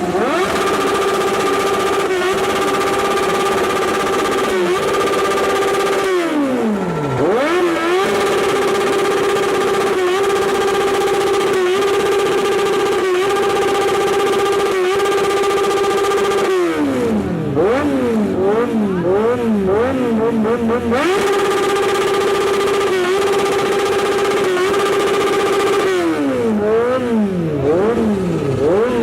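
Kawasaki Z800 inline-four engine revved hard through its exhaust. It is held at one high, steady pitch for long stretches with brief dips about once a second. Twice it breaks into a run of quick throttle blips, the revs rising and falling rapidly.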